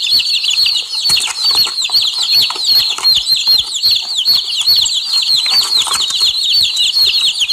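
Baby chickens peeping without pause: a dense run of short, high cheeps that each slide down in pitch, several a second and overlapping, as from a group of chicks.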